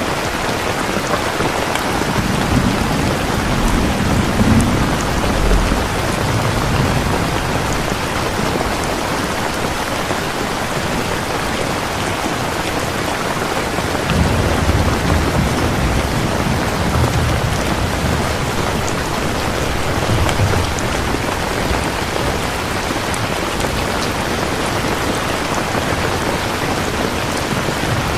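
Steady rain falling, with two long low rolls of thunder, one a couple of seconds in and another about halfway through.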